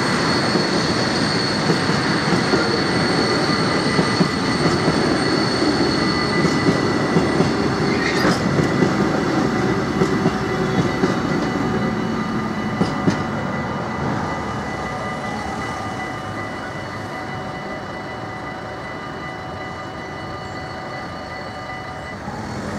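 Freight train wagons rolling past over a level crossing, with a steady high wheel squeal over the rumble and frequent sharp knocks as wheels run over the rail joints. The sound eases off gradually through the second half as the train draws away.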